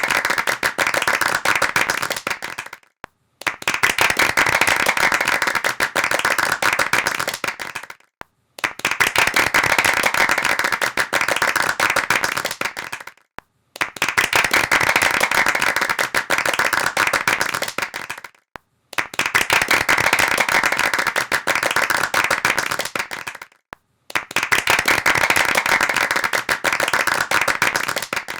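Hand clapping in repeated bursts of about four to five seconds each, dense and fast, each burst tailing off and stopping before a short silent gap, about six bursts in all.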